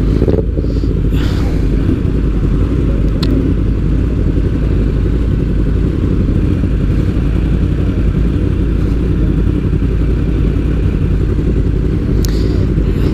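Motorcycle running at a steady pace: a constant low rumble with no change in engine speed, and a couple of faint ticks.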